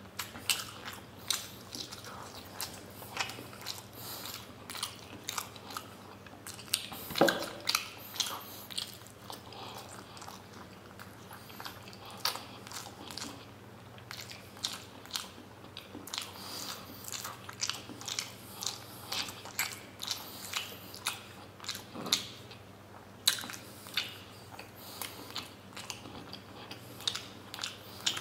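Close-miked chewing of soft steamed paneer momos, with frequent short wet mouth clicks and smacks throughout.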